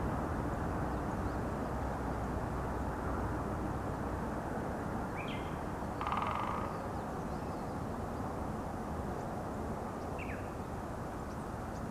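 Wild birds calling over a steady low background rumble: a short high chirp about five seconds in, a brief harsh, buzzy call about six seconds in, and another short chirp near the end.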